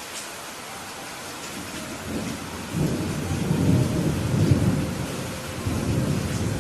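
Steady rain, with a low roll of thunder that builds about two seconds in and rumbles on, easing off near the end.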